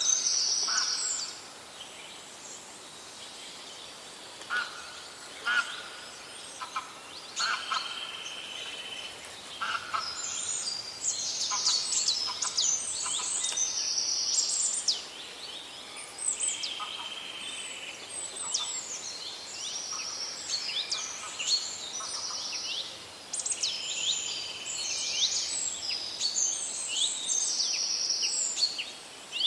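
Several forest birds singing at once: quick high trills and chirps overlapping with held buzzy notes and a few lower short calls, in phrases that come and go.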